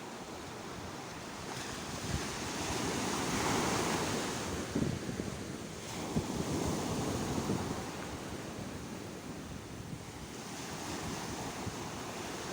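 Sea waves breaking and washing on the shore. The surf swells twice, from about two to five seconds in and again around six seconds, then eases off.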